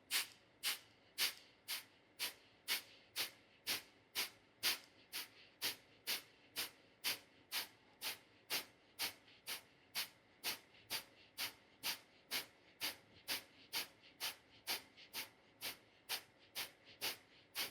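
Kapalabhati breathing: sharp, forceful exhales pushed out through the nose, each a short nasal hiss, repeated evenly at about two a second.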